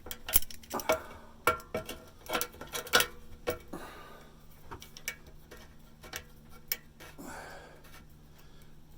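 Hand tools clicking and clinking on a rusted steel exhaust pipe: vise-grip pliers and a pry bar being worked on the pipe. The clicks come thick and irregular for the first few seconds, then thin out to a few sparse ones.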